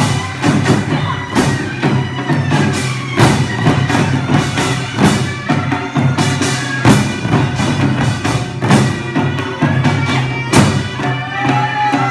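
Korean traditional music: a steady pattern of drum strikes under sustained melodic tones.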